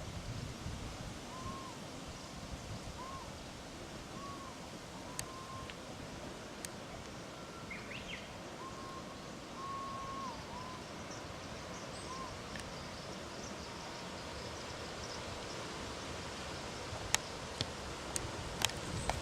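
Outdoor ambience: a steady hiss, with a distant bird giving a string of short, even whistled notes and one higher chirp partway through. A few sharp clicks come near the end.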